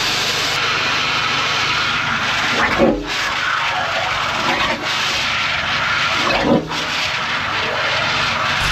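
A mud sucker's vacuum unit runs steadily while its hose draws up water and silt from the chamber, with two louder gulping surges about three and six and a half seconds in.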